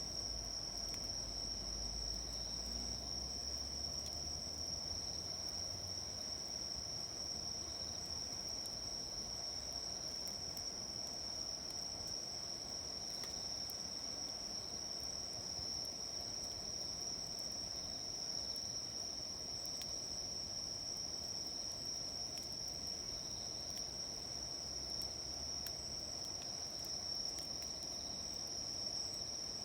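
Insects trilling steadily in one continuous high-pitched chorus, with a low rumble in the first several seconds.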